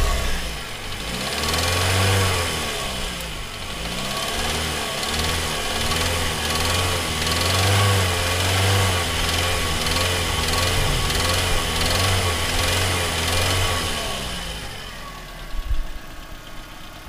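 Car engine with a spun bearing, revved up and down again and again in short blips. The engine sound fades out near the end, with a few sharp knocks.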